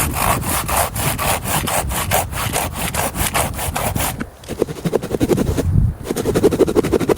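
Hand saw cutting through wood with quick back-and-forth strokes. After about four seconds there is a short pause, then the strokes go on with a duller sound.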